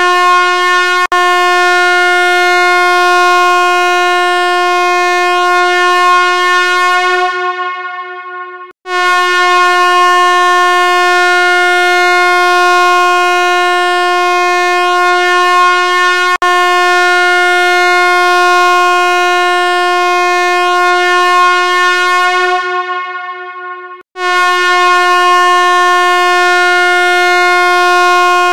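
A loud, steady buzzing tone held at one pitch, rich in overtones. It fades out over about two seconds and restarts abruptly twice, as a repeating sound-effect loop.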